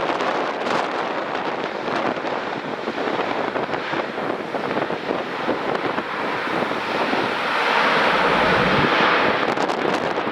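Jet airliner engines running with a steady rush, swelling louder about eight seconds in, and wind buffeting the microphone.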